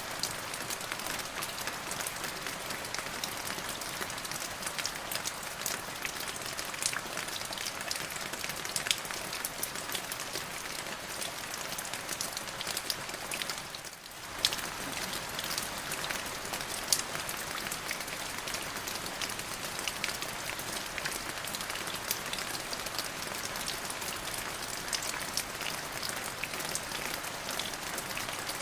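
Steady rain falling on a surface, a dense hiss with many individual drops tapping through it. The sound dips briefly about halfway through, then carries on as before.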